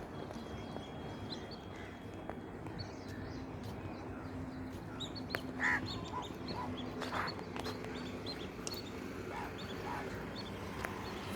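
Birds calling: many short, scattered calls over a steady background, with one louder call about halfway through.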